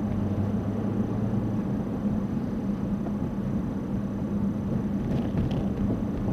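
Car driving, a steady engine and road-noise hum as picked up by a dashcam.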